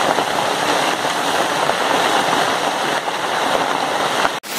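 Heavy rain mixed with hailstones pelting the ground and nearby surfaces: a dense, steady downpour hiss with many small pattering impacts, broken off abruptly near the end.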